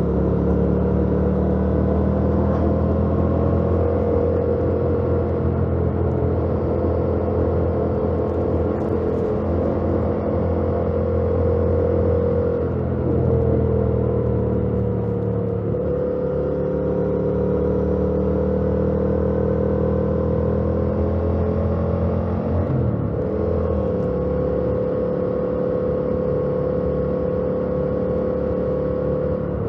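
2018 Yamaha MT-07's 689 cc parallel-twin engine through its stock exhaust, running steadily under way on the road. Its pitch holds and glides gently, with brief shifts about 13, 16 and 23 seconds in.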